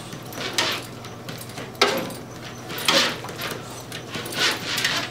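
Beagles scratching at a door in about five short rasping bursts, over a steady low hum.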